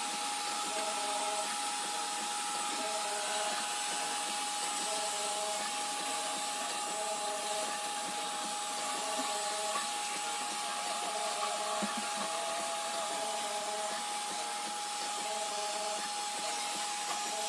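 iRobot Roomba robot vacuum running, a steady whir with a constant tone and a faint pattern that repeats about every two seconds, sped up fourfold.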